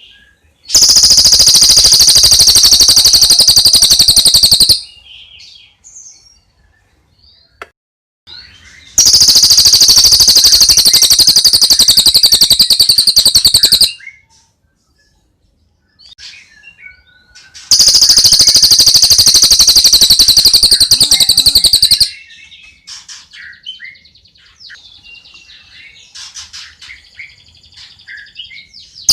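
Songbird recording: three bouts of loud, rapid, high-pitched trilling, each about four to five seconds long, with faint short chirps in the gaps between them.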